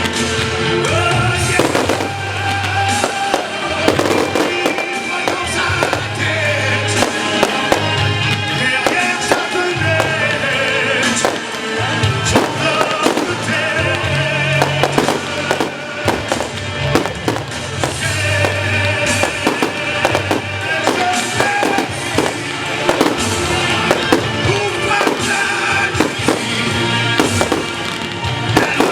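Fireworks going off in a rapid series of sharp bangs and crackles, over music with a steady bass line.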